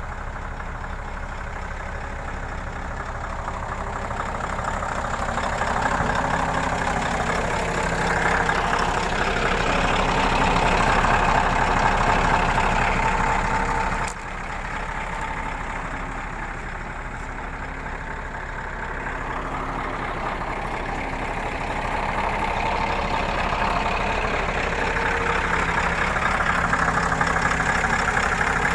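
Scania R580 truck's V8 diesel engine running steadily, growing louder twice. The level drops abruptly about halfway through.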